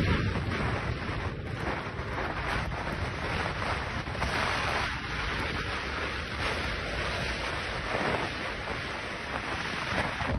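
Strong storm wind blowing steadily and buffeting the microphone.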